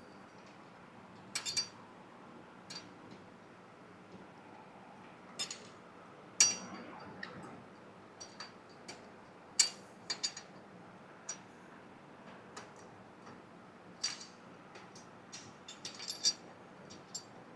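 Scattered light metallic clinks and taps of steel parts being handled and knocked together while rotating a truck's rear axle and fitting a part into the brake assembly, irregular and a few seconds apart, the loudest about six and a half and nine and a half seconds in.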